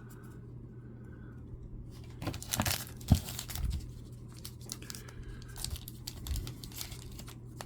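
Baseball card pack wrapper crinkling and tearing as packs are handled and opened, with one sharp snap about three seconds in, over a faint steady hum.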